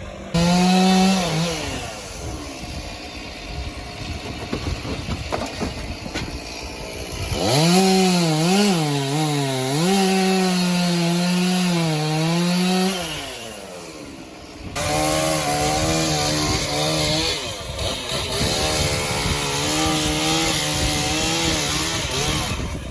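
Two-stroke chainsaw running at high revs while cutting wood, its pitch wavering and sagging as the chain bites in. The sound comes in three stretches that start abruptly, about a quarter of the way in and just past halfway.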